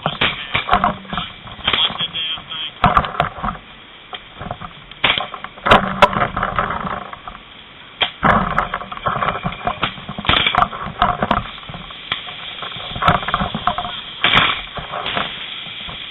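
Indistinct voices mixed with scattered knocks and clatter.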